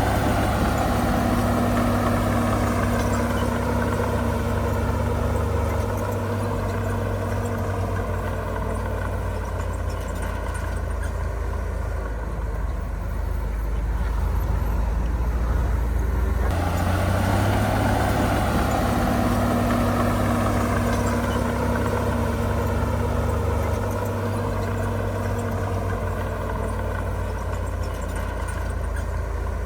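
Heavy diesel engine of earthmoving machinery running steadily, its pitch drifting slowly up and down. About halfway through the sound changes abruptly, as at an edit.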